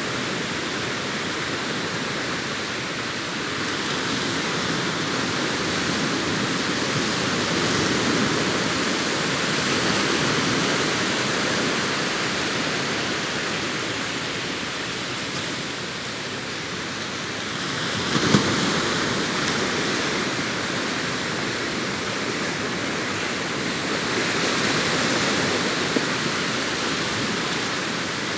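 Sea waves breaking and washing up a beach: a steady wash that swells and eases slowly, with one sharper crash about two-thirds of the way through.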